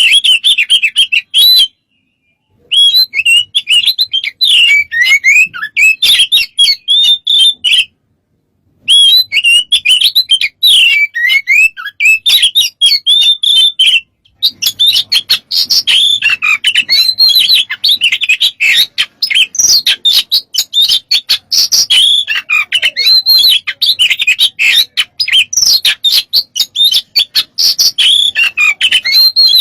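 Oriental magpie-robin (kacer) singing a loud, fast, varied song of chirps, whistles and rapid gliding trills, packed with mimicked phrases (isian). The song cuts off into complete silence three times for under a second each.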